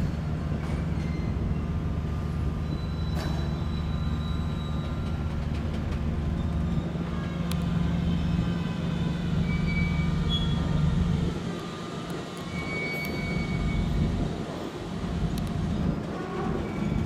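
Railway train moving slowly, with a steady low drone and a few short, faint, high metallic squeals from the wheels on the rails.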